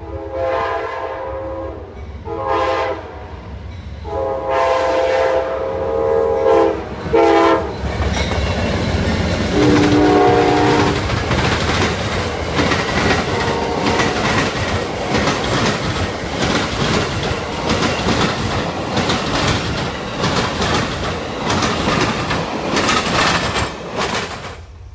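Amtrak passenger train sounding its horn in a series of long and short chord blasts as it approaches, with one more blast at a lower pitch as the locomotive goes by. Then the stainless-steel passenger cars rush past at speed with a steady clickety-clack of wheels over the rail joints, which cuts off suddenly near the end.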